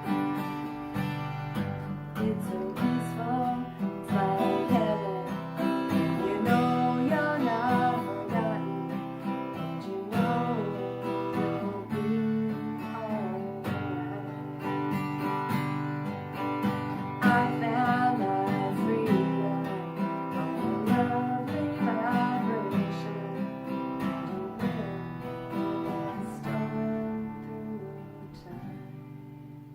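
Strummed acoustic guitar music with a melody line over the chords, getting quieter near the end.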